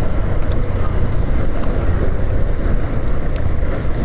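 Wind buffeting the microphone on a moving motorcycle, a loud, steady rumble with the bike's engine and road noise underneath.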